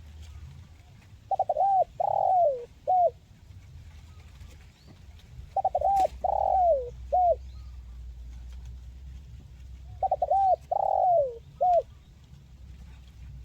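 Spotted dove (tekukur) cooing: three repeated call phrases about four seconds apart, each two quick short notes, then a longer falling coo and a short closing note. A steady low hum sits underneath, with one sharp click in the middle.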